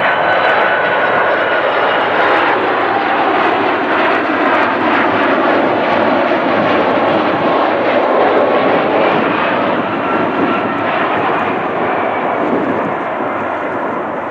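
Boeing 747-400 freighter's four jet engines: a loud, steady rush with faint whining tones that drift in pitch, easing off slightly toward the end.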